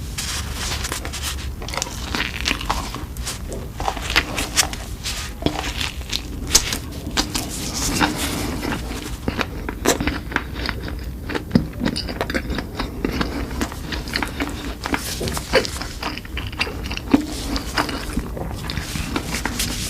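Close-miked mukbang eating: a person chewing and biting food, with many irregular crunchy, wet clicks.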